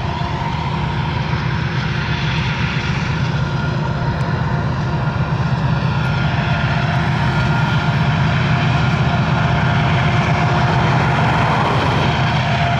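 Diesel-electric freight locomotives working under power, a steady heavy engine drone that grows gradually louder as the train draws near.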